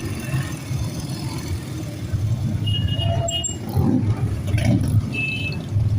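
Motorbike engines running with a low, uneven rumble.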